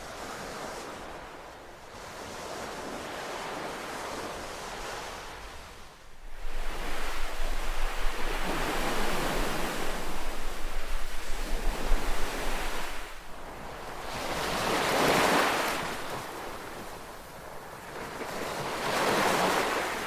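Ocean waves breaking on a beach, each one swelling and washing back out every few seconds, with a louder, rougher stretch of surf in the middle.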